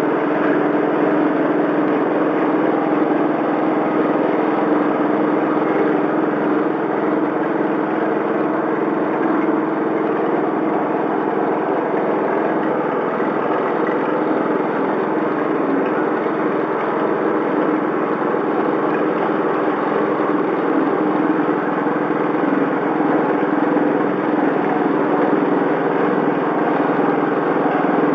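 Engine-driven coconut milk press machine running steadily, its driving engine giving an even mechanical hum that does not change in speed.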